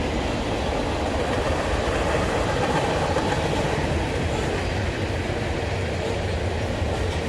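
Freight train cars rolling past, a steady, continuous noise of steel wheels on the rails.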